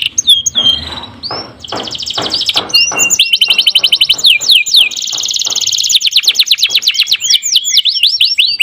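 Domestic canary singing a tutor song: low rolling pulses in the first few seconds, then a dense, fast high trill and a run of repeated downward-sweeping whistled notes.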